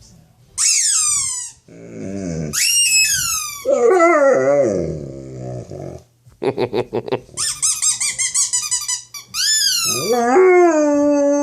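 A dog howling and growling in long wavering cries that fall in pitch, with a short run of barks in the middle, against a high shrill squeal that slides downward several times: the sound the dog hates.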